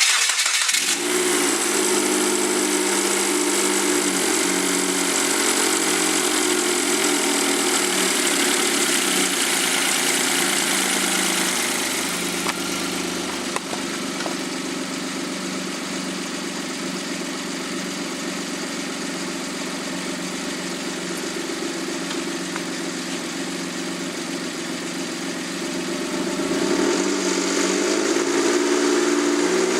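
Suzuki K6A 658 cc three-cylinder engine from a Jimny JB23W, running at a steady idle. It comes in abruptly at the start, turns somewhat quieter after about twelve seconds, and grows louder again near the end.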